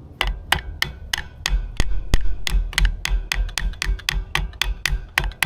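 Rapid, even tapping of a hand tool against metal, about four sharp strikes a second, working at the rust-stuck impeller key on a 25 hp Yamaha outboard's driveshaft to free it.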